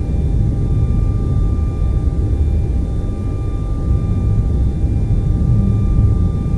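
Steady TV static noise: an even, unbroken rush weighted toward the low end, with a few faint steady high tones running through it.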